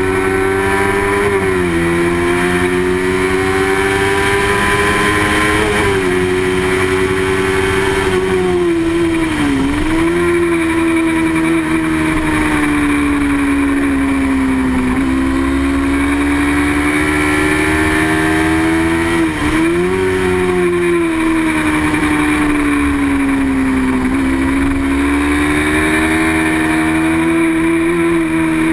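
Small-displacement sport motorcycle engine running at high revs under race conditions, its pitch slowly climbing and falling with a few sharp dips, about four times, as the throttle and gears change. A steady rush of wind noise runs underneath.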